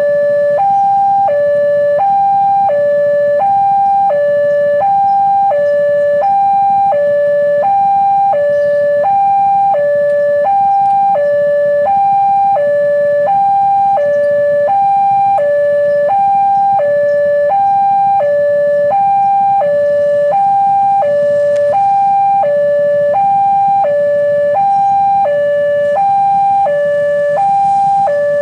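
Railway level-crossing warning alarm sounding: an electronic two-tone signal switching evenly between a higher and a lower pitch about once a second without a break, meaning a train is approaching and the crossing is closed. Under it runs a low, steady rumble.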